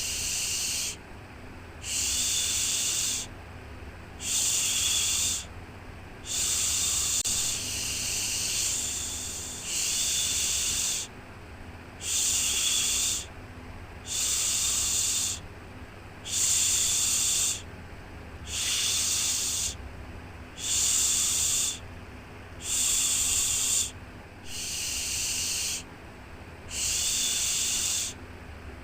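Repeated soothing 'shhh' shushing for a baby, a hiss about a second long roughly every two seconds in an even rhythm, over a steady low hum.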